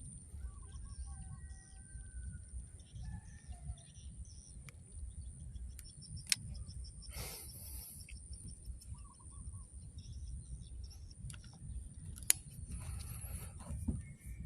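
Small birds chirping and trilling intermittently over a low wind rumble and a steady high insect whine, with two sharp clicks, one about six seconds in and one about twelve seconds in.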